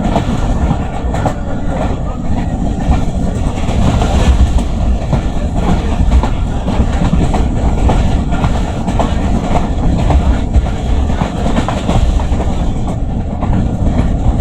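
Passenger express train running through a station at speed, a steady loud rumble with its wheels clattering over the rail joints.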